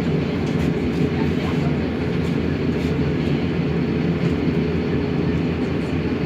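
Diesel engine of a Mercedes-Benz OMC-1421 city bus running steadily, with a dense low drone and no change in speed.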